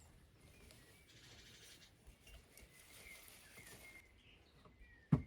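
Faint bird chirps in the background, ending in a single sharp knock near the end.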